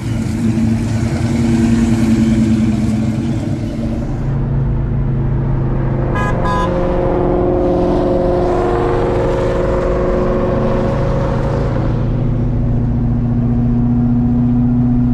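A car engine running steadily, its note shifting a little in pitch partway through, with a brief run of high beeps about six seconds in.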